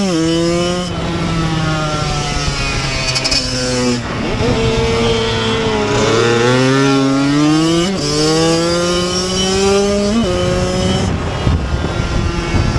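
Kawasaki KX85's two-stroke single-cylinder engine heard from onboard, racing hard. It drops in pitch over the first few seconds as the bike slows for a corner, then climbs again, with two quick up-and-down shifts in pitch near eight and ten seconds, and runs steadier near the end.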